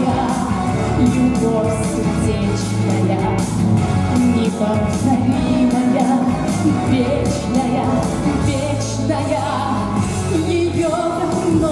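Live performance of a pop ballad: a woman singing over band accompaniment.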